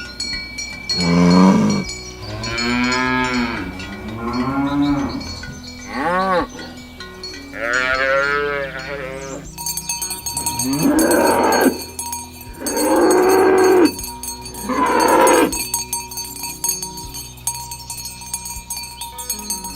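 Cattle mooing, about eight long calls one after another, some rising then falling in pitch, with bells ringing steadily behind them.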